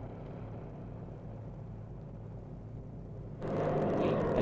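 Propeller aircraft piston engine running steadily as a low, distant hum. About three and a half seconds in it cuts abruptly to a much louder, closer engine and propeller sound.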